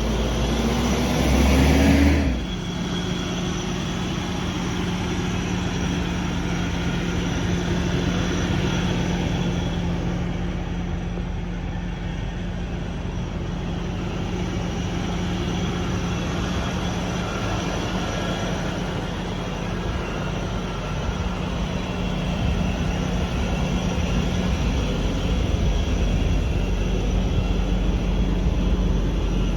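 1994 Toyota LiteAce truck's engine just after starting: the revs rise for about two seconds, drop suddenly, then it idles steadily.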